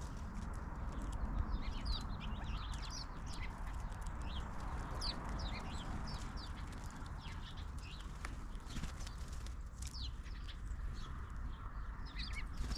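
Small birds chirping, many short high calls overlapping and scattered throughout, over a steady low rumble.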